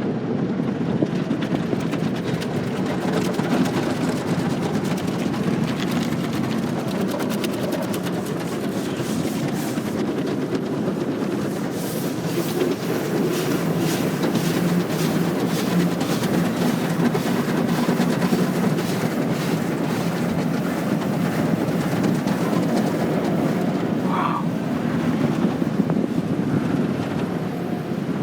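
Automatic tunnel car wash heard from inside the car: rotating brushes slapping and scrubbing over the car's body amid water spray, over a steady low rumble of the machinery, with a run of rapid slapping strokes in the middle.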